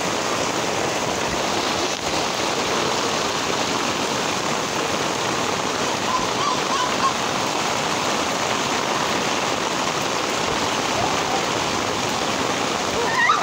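Heavy rain pouring steadily onto a paved street, a constant even hiss.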